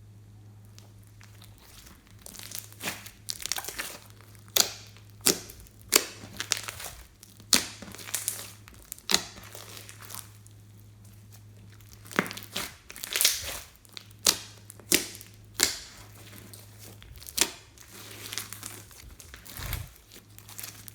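Slime being squeezed, folded and stretched by hand, giving irregular sticky pops and crackles, a few louder snaps among them, over a steady low hum.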